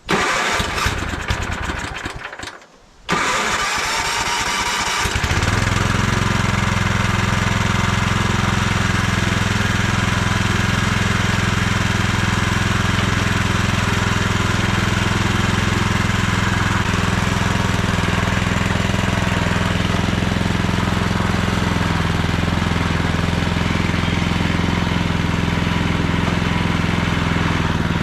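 Small petrol engine cranking and catching, then running steadily at a constant speed. An uneven start for the first few seconds, a short dip, then a loud, even running note from about five seconds in.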